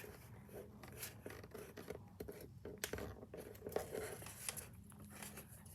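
A sheet of paper being folded and creased by hand for a paper airplane: faint, scattered rustles and scrapes.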